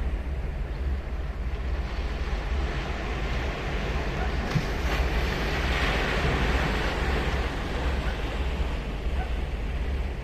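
Ocean surf washing onto a beach, with one wave surging louder about halfway through. A steady low wind rumble on the microphone runs underneath.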